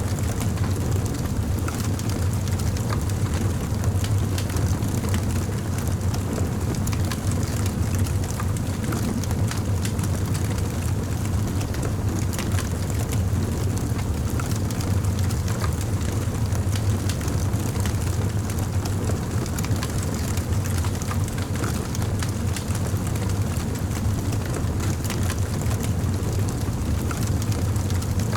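Campfire burning: scattered small crackles and pops over a steady low rumble.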